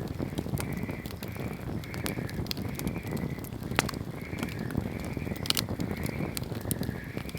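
Wood bonfire crackling and popping over a low rumble of burning, with two sharper pops in the middle. A high chirp repeats more than once a second behind it.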